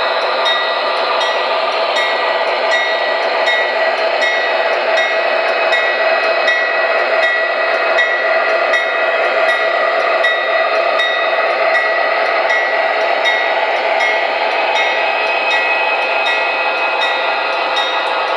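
MTH Premier O-gauge ES44AC model diesel locomotive running on track: a steady rolling rumble with a few held tones and regular light clicks as the wheels pass over the rail joints.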